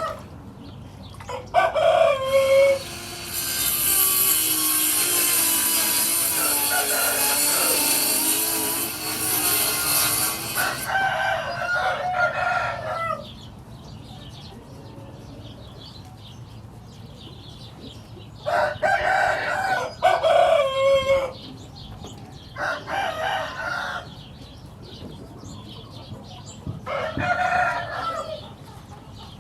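Roosters crowing again and again, each crow a couple of seconds long, with quieter calls between. A few seconds in, a loud steady hiss lasting about eight seconds runs under the crowing.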